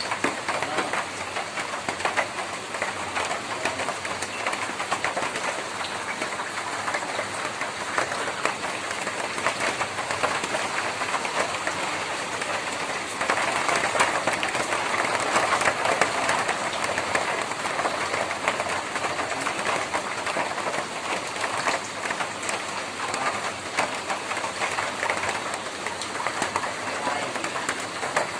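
Rain falling on a tin roof: a dense, steady patter of drops, heavier for a few seconds about halfway through.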